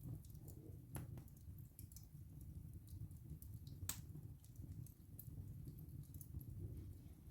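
Wood fire burning in a fireplace: a steady low rumble of flames with frequent small crackles and two sharper pops of the burning wood, one about a second in and a louder one about four seconds in.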